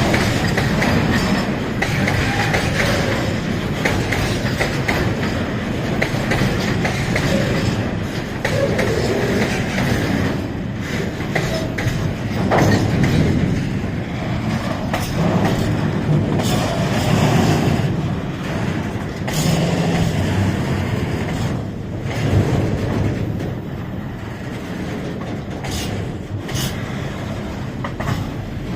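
Train running on the rails, wheels clattering with many sharp clicks over the track, loud and steady.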